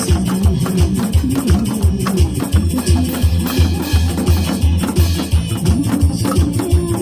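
Instrumental passage of a Korean trot-style backing track with a steady drum beat, with a janggu (Korean hourglass drum) played along in free makjanggu style.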